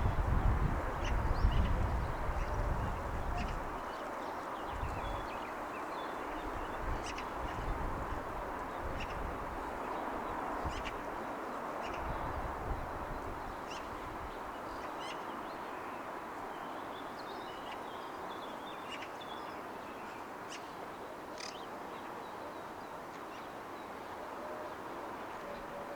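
Early-morning ambience of a city by the ocean: a steady distant wash of noise with many short bird chirps and calls scattered throughout, and a low rumble in the first few seconds.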